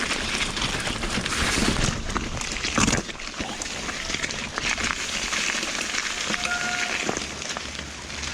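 Mountain bike riding fast over rough, wet, rocky trail: wind rushing over the microphone, tyres hissing through water, and the bike clattering and knocking over rocks, with a hard jolt just before three seconds in and a brief squeak a little past six seconds.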